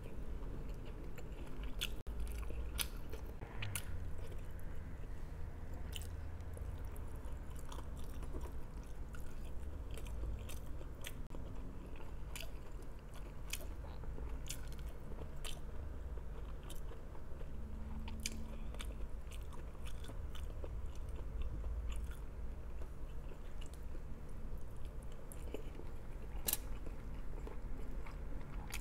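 Close-miked chewing and mouth sounds of a person eating rice and other food by hand, with frequent small clicks and crunches over a steady low room hum.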